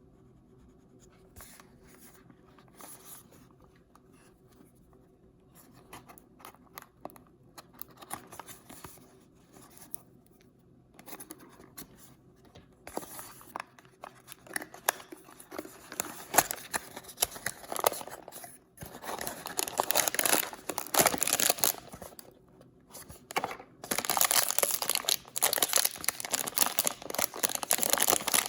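Packaging being torn open and crinkled by hand, likely a paper blind bag: sparse quiet rustles and clicks at first, then dense, louder tearing and crinkling from about halfway, with a couple of short pauses.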